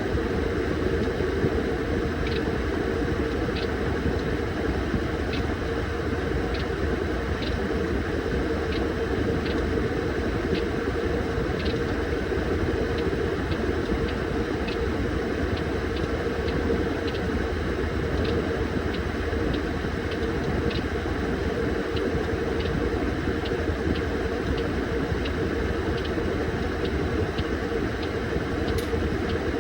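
Washing machine running with a bag in a laundry net inside: a steady hum with a constant churning wash of noise, and light ticks repeating about every three-quarters of a second.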